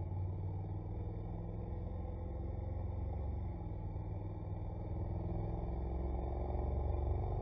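Honda NC750X's parallel-twin engine running on the move, low-pitched and growing gradually louder toward the end.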